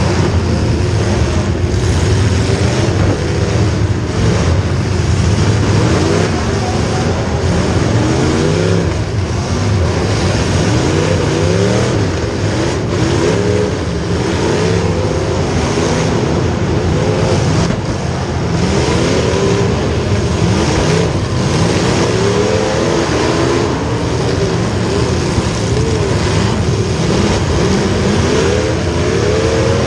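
Several racing engines running hard together, their pitch repeatedly climbing and dropping as the vehicles accelerate and lift off around the track.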